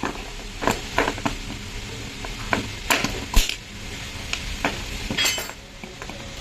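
Tools and metal car parts being handled during a repair: irregular sharp clinks and clanks, about a dozen over a few seconds, with a low steady hum underneath.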